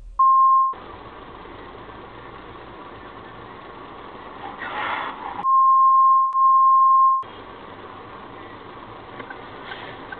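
A steady high-pitched censor bleep, sounding twice: briefly just after the start, then for about two seconds in the middle. Each bleep blanks out the audio beneath it. Around the bleeps runs the steady hum of dashcam cabin road and engine noise.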